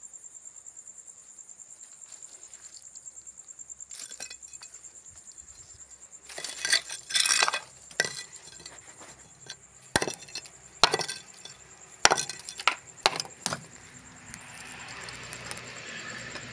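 Crickets chirping steadily in the background while hard objects are handled: a series of sharp clinks and knocks, with a stretch of scraping about six to eight seconds in.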